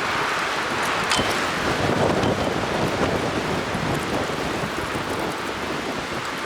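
Strong wind of about 40 mph or more blowing across the microphone: a steady, loud rush of wind noise.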